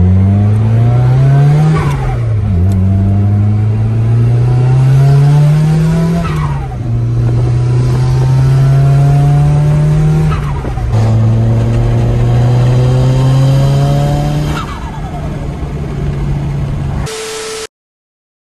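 Turbocharged Nissan S13's SR20DET engine pulling hard through the gears, its pitch climbing and then dropping sharply at three upshifts, each shift marked by a falling turbo whistle. The sound cuts off suddenly near the end.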